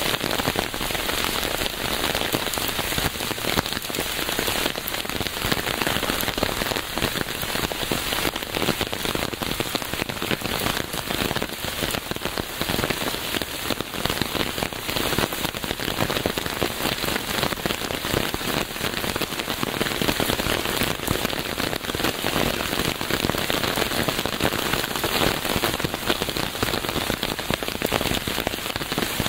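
Steady rain falling on a hard surface, a dense even patter of many small drop impacts that holds at one level throughout.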